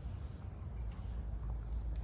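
Low, steady rumble of wind buffeting the microphone, with a few faint clicks over it.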